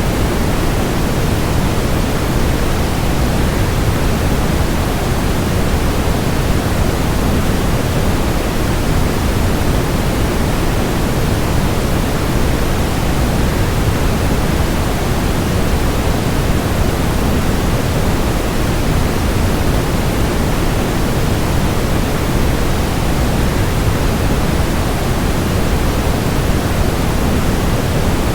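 Waterfall white noise: a steady, unbroken rush of falling water, heaviest in the low end and unchanging throughout.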